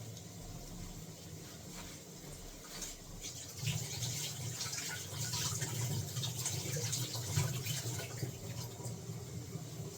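Potato-and-bread tikkis frying in hot oil in a kadhai: a crackling sizzle over a low hum, growing louder about three and a half seconds in.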